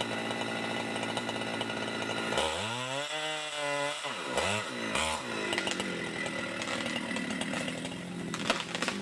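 Chainsaw engine revved up about two and a half seconds in and let back down. It gives two short blips of the throttle, then settles to a steady low run near idle.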